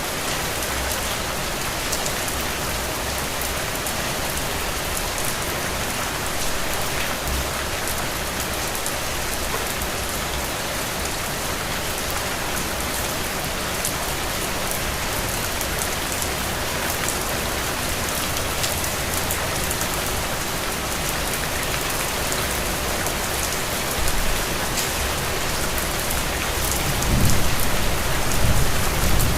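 Steady rain falling, a dense even hiss with scattered drop ticks. A low rumble swells briefly about three-quarters of the way in and again near the end.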